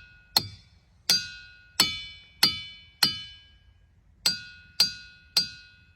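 A run of bright struck chime notes, each ringing with several high tones and dying away, about one every 0.6 s with a short pause about halfway.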